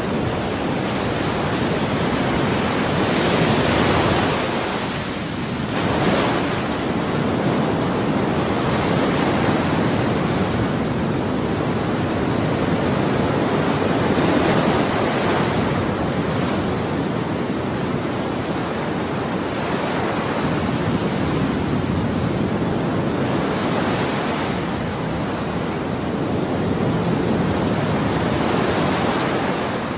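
Ocean waves breaking and washing on a shore in a continuous surf hiss, with swells of louder wash every few seconds.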